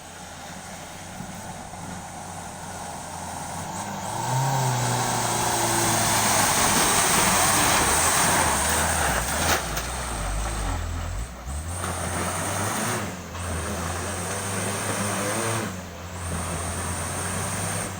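Truck engine running under load, growing louder about four seconds in and easing off briefly three times in the second half.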